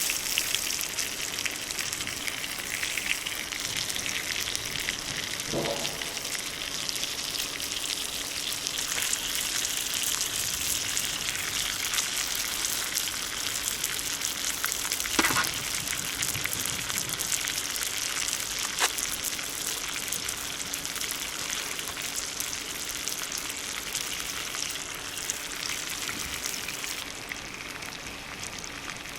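Food sizzling and spitting in a pan over a wood fire in a small folding fire pit: a steady dense crackle, with two brief pitched sounds about six and fifteen seconds in.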